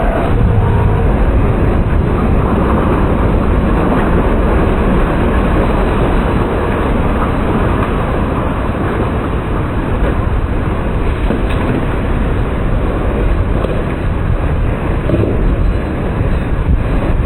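Loud, steady rush of tornado-force wind buffeting the microphone, a dense low rumble with no let-up.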